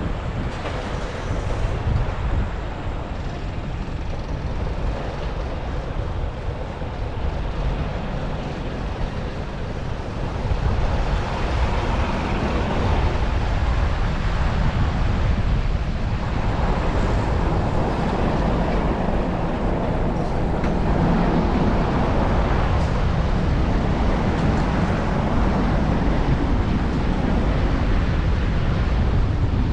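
Steady road and traffic noise, with low rumbling wind on the action-camera microphone, as heard from a moving bicycle; it gets a little louder about a third of the way in.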